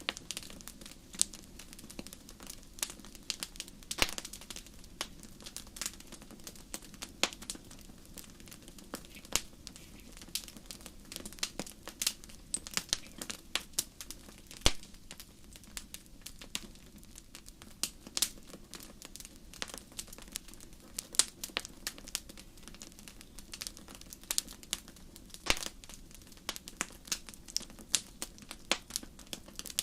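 Wood campfire crackling, with irregular sharp pops and snaps scattered over a steady low hiss of burning.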